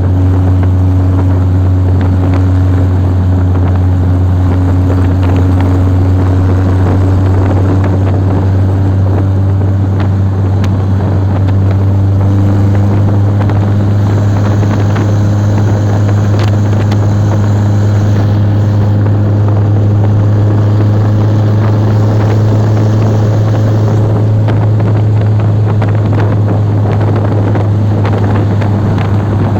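Steady, loud low drone of a running vehicle engine, holding an even pitch with no revving.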